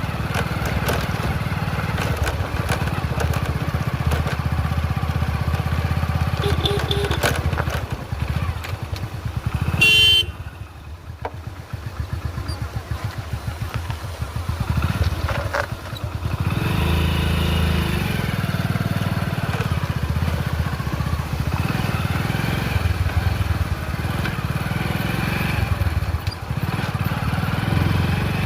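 Motorcycle engine running under way, with a short horn beep about ten seconds in. The engine then drops back to a quieter, easing-off sound for several seconds before pulling strongly again.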